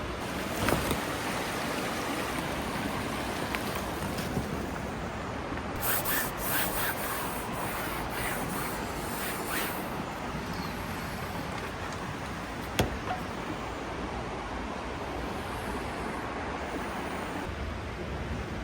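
Mountain stream rushing steadily, with a cluster of short taps about a third of the way in and one sharp click later on.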